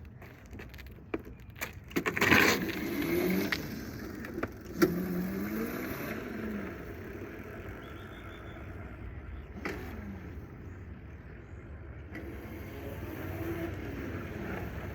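Child's ride-on motorbike motor whining, its pitch rising and falling as it speeds up and slows. A few sharp knocks come over the steady running noise.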